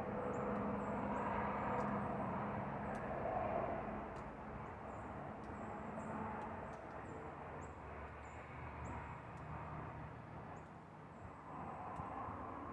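Outdoor background of steady distant engine rumble that slowly fades, with faint, short, high chirps repeating about once or twice a second.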